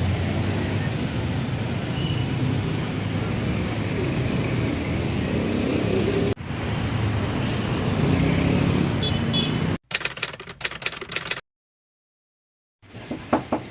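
Steady outdoor background noise with a low rumble, broken by an abrupt cut about six seconds in. Just before ten seconds it gives way to a quick run of clicks, then a stretch of dead silence.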